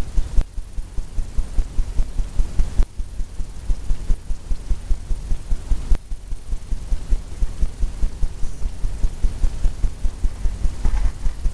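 Rapid, uneven low thumps of a paintbrush dabbing on a stretched canvas.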